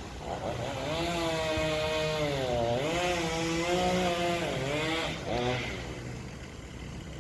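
Chainsaw running and revving up and down as it cuts through a fallen tree, the engine pitch swinging and dipping for a few seconds before it drops away about five and a half seconds in.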